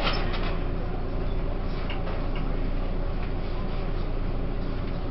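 Steady running noise inside a passenger car of a Taiwan Railways E1000 push-pull Tze-Chiang express train under way, a low rumble, with a few light clicks near the start and about two seconds in.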